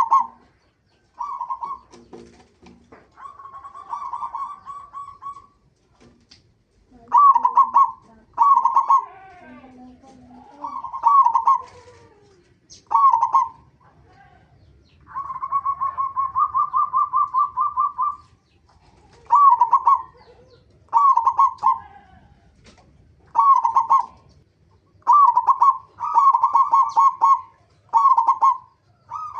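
Zebra doves (perkutut) cooing: a series of short rolling, bubbling coo phrases repeated every second or two, with one longer trilled phrase of about three seconds midway.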